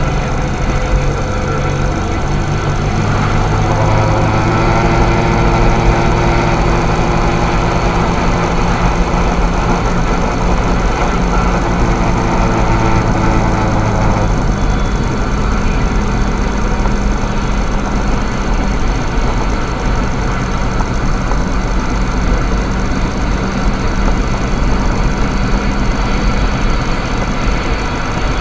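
Vehicle driving at road speed, engine and road noise heard from inside the cabin, with a steady engine drone from about three seconds in until about halfway through.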